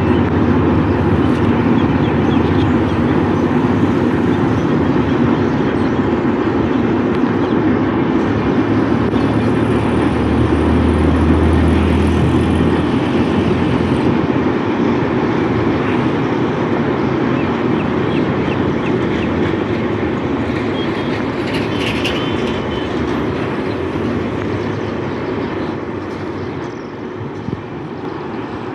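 A train running past at close range: a steady loud rumble and rattle of wheels on the rails, easing off slightly near the end.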